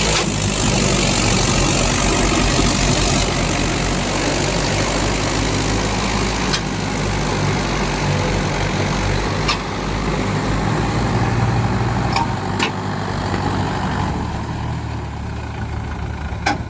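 Mahindra tractor's diesel engine running steadily, with a few short sharp knocks over it.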